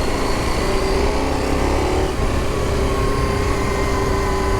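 Adventure motorcycle's engine running steadily as it is ridden along a dirt track, a constant low rumble with a steady engine note that settles in about two seconds in.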